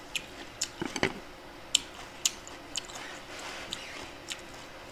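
Close-up chewing of a mouthful of food, with a scattered series of short, sharp clicks and smacks.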